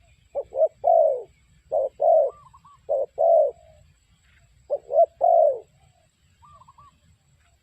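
Spotted dove cooing: four phrases, each of two short notes and a longer, falling coo, with brief pauses between them. A fainter, higher cooing from another dove sounds in the gaps.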